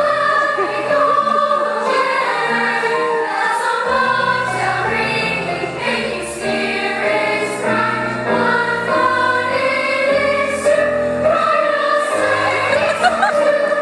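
A school choir singing in parts, holding sustained chords, with lower notes coming in about four seconds in.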